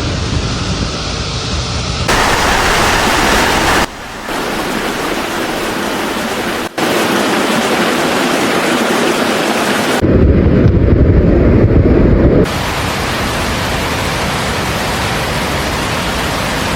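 Steady rushing water noise from a string of short flood clips. The sound changes abruptly every few seconds, and the loudest stretch, with a deep rumble, comes a little past the middle.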